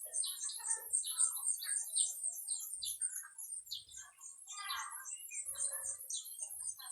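Several birds chirping and calling in short, irregular notes, over a rapid, very high-pitched pulsing that repeats several times a second.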